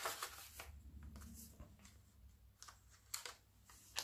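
Soft paper rustling as journal pages and paper tags are handled and turned, with a couple of sharper, crisper paper sounds near the end.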